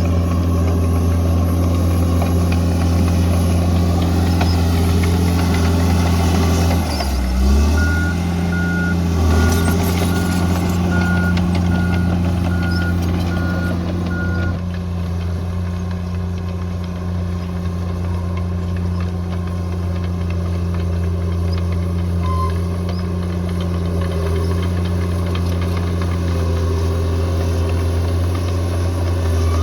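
Heavy earthmoving machine's diesel engine running steadily under work, its note dipping briefly about a quarter of the way in. A reversing alarm then beeps at an even pace for several seconds while the machine backs up.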